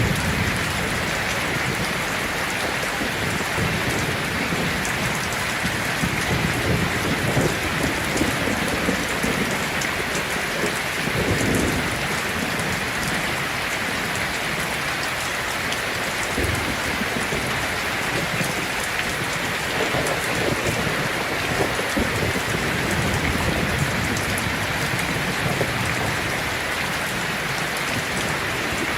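Heavy rain falling steadily on a tin roof, with low rumbles of thunder that swell and fade twice.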